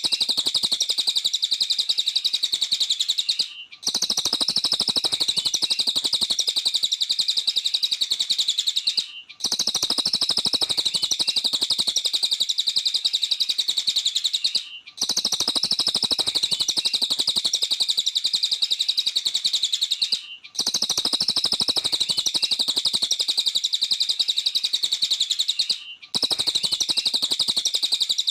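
Cililin (small minivet) song: a fast, unbroken high-pitched chatter. It comes in stretches of about five and a half seconds, separated by brief gaps at even spacing, as if the same stretch were repeating.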